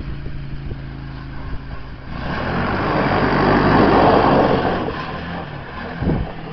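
Kinroad XYKD-250 buggy's 250cc engine running with a steady low hum. From about two seconds in, a broad rushing noise swells up with it, loudest around four seconds, then fades away.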